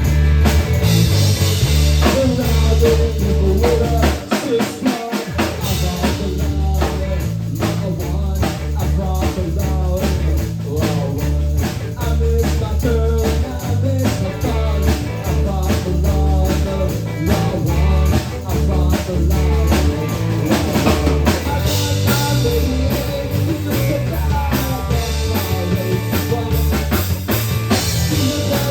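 Recorded rock music: a song with a steady drum beat, bass, electric guitar and singing. The bass drops out briefly about four seconds in.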